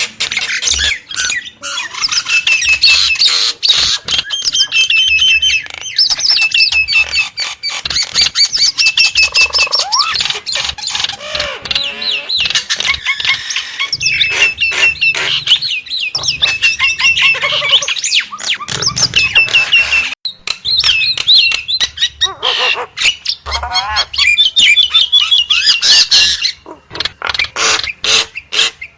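Nias hill myna calling continuously: a loud, rapid run of sharp clicks, squawks and short repeated whistled notes.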